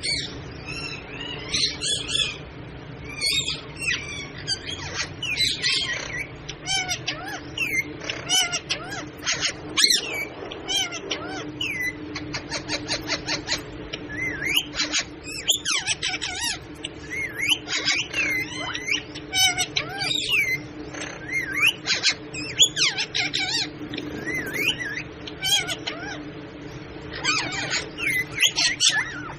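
Pet parrot calling repeatedly: a string of short squawks, whistles and chatter, with a fast trill about halfway through, over a steady low hum.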